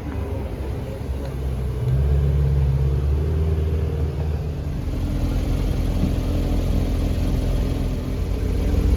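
Car engine running with a low rumble, swelling louder about two seconds in and changing pitch about halfway through.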